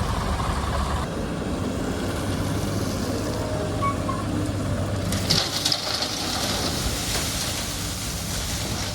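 SANY excavator's diesel engine running steadily, its low hum easing about a second in. About five seconds in, a rush of hissing, crackling noise starts with a few sharp clicks and fades near the end.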